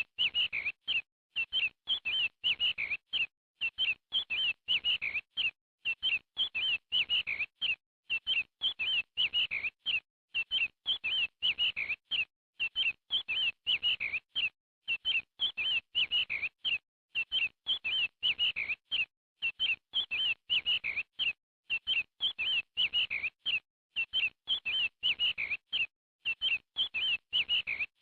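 Baby birds chirping: quick high chirps in short runs of several at a time, broken by brief pauses, repeating evenly throughout.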